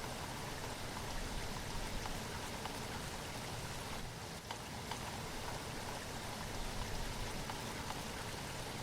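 Steady rainfall with scattered drops ticking on surfaces.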